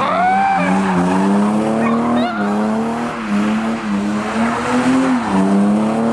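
Car engine held at high revs, its pitch dipping and climbing slightly, while the tyres squeal and skid in a burnout.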